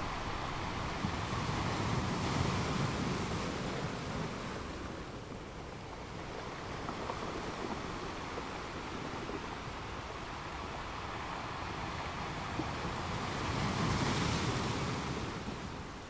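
Ocean waves washing steadily, swelling louder about two seconds in and again near the end.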